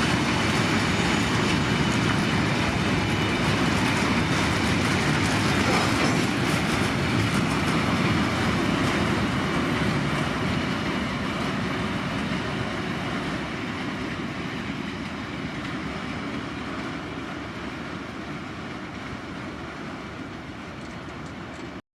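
Freight train rolling past on the rails, steady at first, then growing fainter over the second half as it draws away. The sound cuts off abruptly just before the end.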